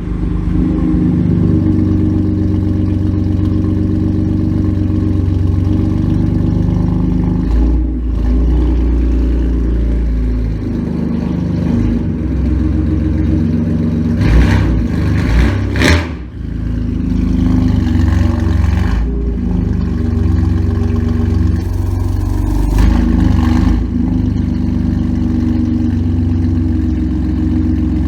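BMW M4's S55 3.0-litre twin-turbo inline-six, breathing through Akrapovic downpipes and a full aftermarket exhaust, settling from a start-up flare into a steady deep idle. About halfway through come two short sharp loud events, then the idle carries on.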